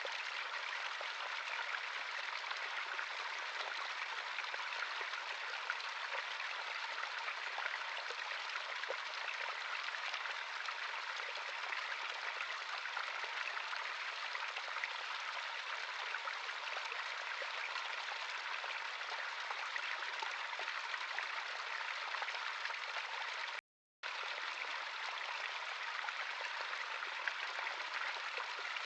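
Natural stream of running water, a steady even rush with fine splashing. About 24 seconds in, the sound drops out completely for half a second and then resumes.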